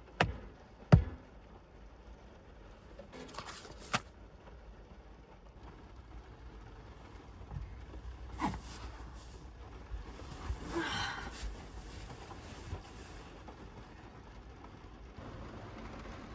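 Objects being handled inside a parked car: two sharp knocks in the first second, the second the loudest, then scattered taps and a short rustle around the middle, over a low steady background.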